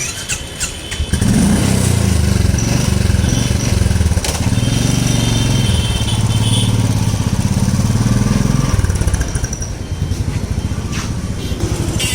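A Royal Enfield motorcycle engine starts up about a second in and runs with a low exhaust note. It eases off a little near the end.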